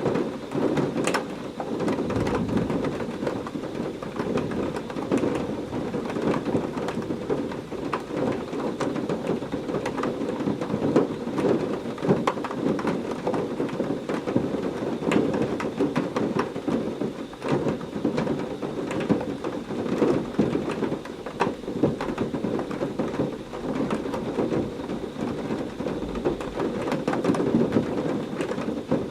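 Heavy rain falling steadily, with many sharp individual drop hits, over a low rumble of thunder.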